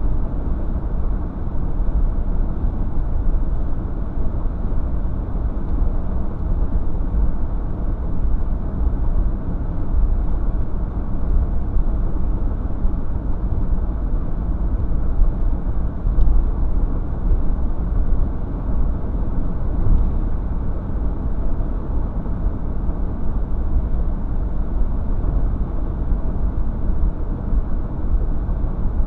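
Steady low rumble of road and engine noise from a car on the move, with no distinct events.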